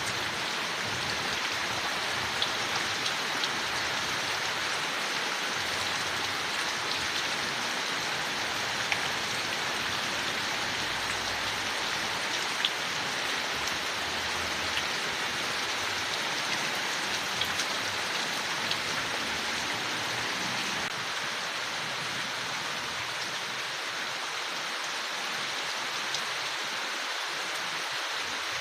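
Steady rain falling on leaves, a continuous even patter with occasional sharper drops landing close by.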